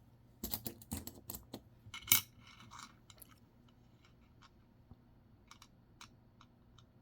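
Nickels clinking as they are handled and set down on a hard surface: a quick run of clinks in the first three seconds, the loudest about two seconds in, then a few faint ticks.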